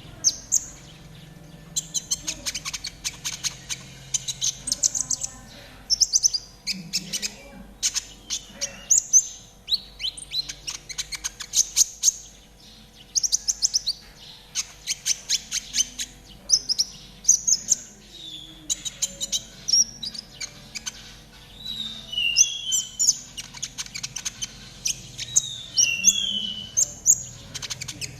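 Konin trotol songbird singing: rapid high trills and chattering runs, turning into repeated sharp downward-slurred chirps in the second half.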